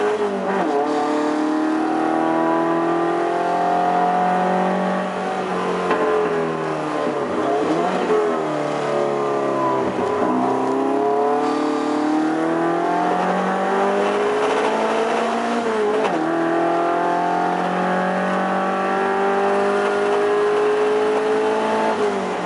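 Toyota 18R-G twin-cam four-cylinder engine of a TA22 Celica race car running hard under load. Its pitch climbs and then drops sharply several times as it works through the gears.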